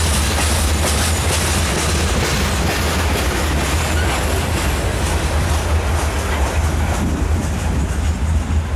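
Freight train covered hopper cars rolling past on the rails, a steady rolling rattle of steel wheels on track. It thins out about seven seconds in as the last car goes by.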